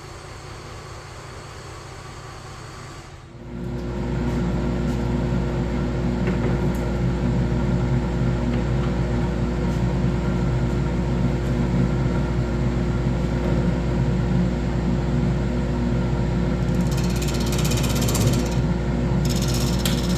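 A woodworking power tool's electric motor switched on about three seconds in, then running steadily with a constant hum; from near the end a hiss joins it, as of the tool cutting or sanding wood.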